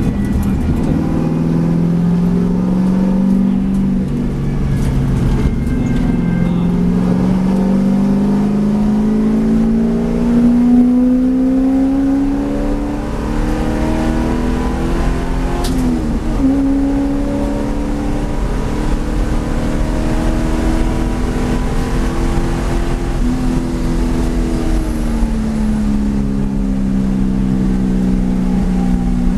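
V8 race car engine under hard acceleration, its pitch climbing through the revs and dropping back at each gear change, with one long pull in the middle.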